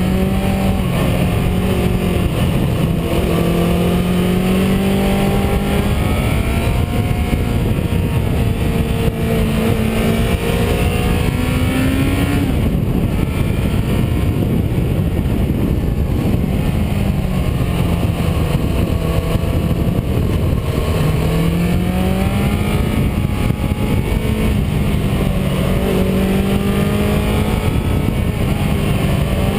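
A car's engine and road noise heard while driving. The engine note holds steady, climbs slowly, drops away about twelve seconds in, then comes back and rises and falls again.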